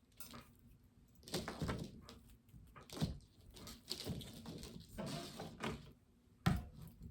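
Plastic artificial foliage rustling and crinkling as it is handled and tried against a wreath, with a few light knocks, the sharpest one near the end.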